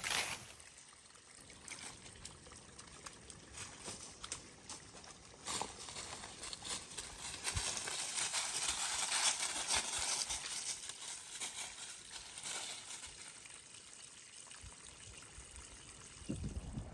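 Small stream trickling over rocks, a steady splashing hiss that grows louder towards the middle and fades again.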